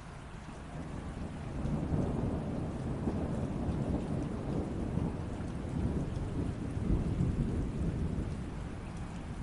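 Steady rain with a low rumble of thunder that builds about a second and a half in, rolls on for several seconds and eases near the end.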